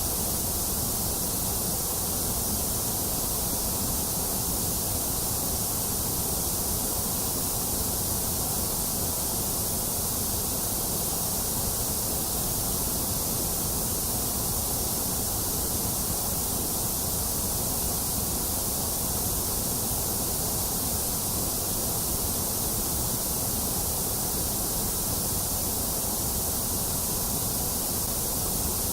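Steady white noise, a constant hiss that never changes, strongest in the high hiss and low rumble and thinner in the middle.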